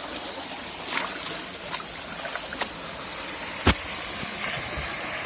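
Steady rushing of a small seasonal waterfall flowing over rocks, with a few faint clicks and one sharp knock about three and a half seconds in.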